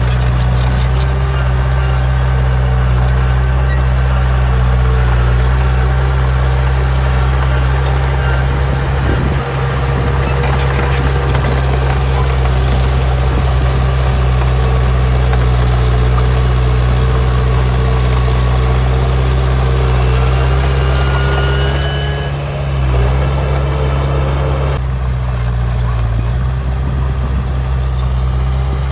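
Heavy diesel engine of earthmoving machinery running steadily with a deep, low drone; about three-quarters of the way through it briefly dips and shifts in pitch, as under a change of load.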